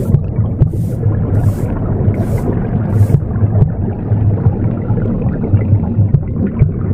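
Womb sound: a steady, low rumbling whoosh. Over it come four short broom sweeps, evenly spaced about three-quarters of a second apart, in the first three seconds; after that only the rumble remains.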